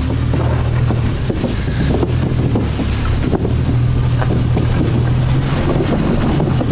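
Wind buffeting the microphone on moving water, over a steady low drone like a boat's motor running under way.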